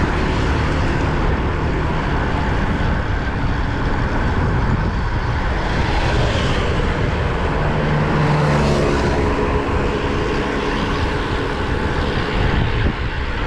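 Steady wind rush on the microphone of a road bike riding at speed, with a motor vehicle's engine passing by around the middle.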